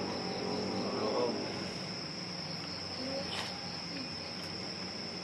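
Crickets trilling steadily in one high, unbroken note, over a low steady hum, with a couple of faint clicks.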